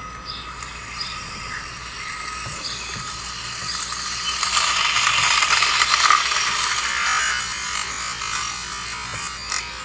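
Small electric drive motor of a homemade RC car whining through its gear train as the car drives. It grows louder around the middle and then eases off, with a few light clicks near the end.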